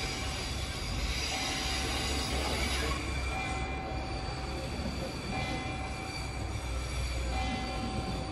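Train running at a station: a steady low rumble and rail noise, with a high steady tone that sounds for about a second and a half at a time and keeps breaking off and returning about every two seconds.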